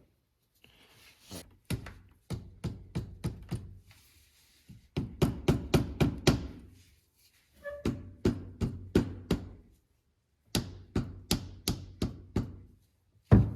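Hammer blows on metal in four quick runs of several strikes each, some with a short metallic ring, working loose a tight bolt on a dirt bike's oil filter cover.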